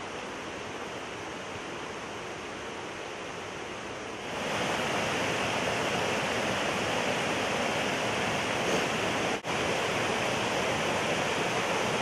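Steady rush of a small mountain creek cascading over rocks, quieter at first and jumping louder about four seconds in, with a momentary dropout a little past nine seconds.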